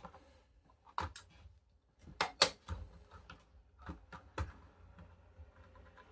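Irregular sharp plastic clicks and taps, about half a dozen, the loudest pair about two and a half seconds in: Lego bricks and parts being handled.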